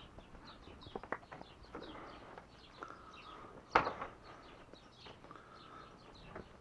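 Small birds chirping over and over, with a few sharp clicks in the first two seconds and one louder knock a little before the middle.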